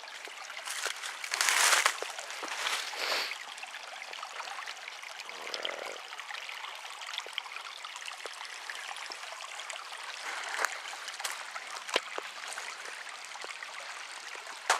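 Small creek trickling steadily over rocks. There is a brief louder rush near the start and a few sharp clicks later on.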